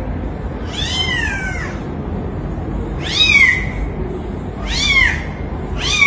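A kitten meowing four times: short, high-pitched calls that rise and fall in pitch, about a second or more apart, over a steady low background rumble.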